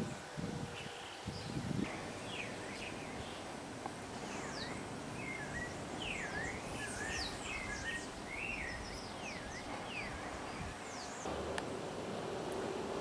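Birds chirping outdoors: many short, quick whistled notes sweeping up and down in pitch, thickest through the middle, over a steady background hiss. A couple of low bumps come in the first two seconds.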